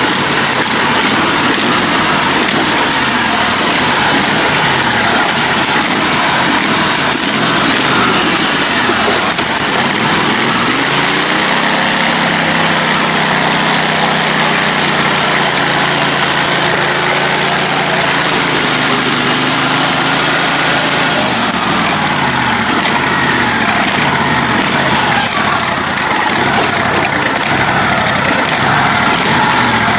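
Small engine of a lifted, modified riding lawn mower running under way, its pitch rising and falling with the throttle, and holding steadier for about ten seconds in the middle.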